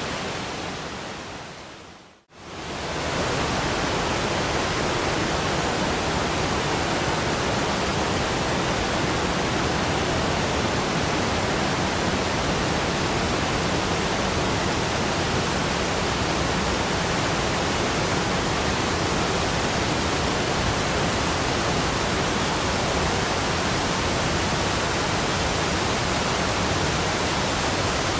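Rushing waterfall, a steady even wash of water noise. It fades away about two seconds in, drops out for a moment, and swells back to full level within a second.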